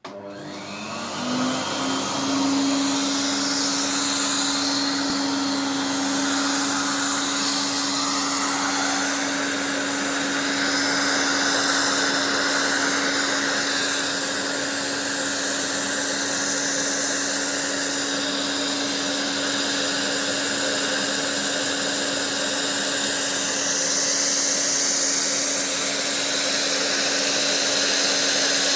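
Vacuum cleaner switched on, its motor spinning up over the first couple of seconds and then running steadily with a strong hum and a rush of air. It is drawing air through a motorcycle throttle body.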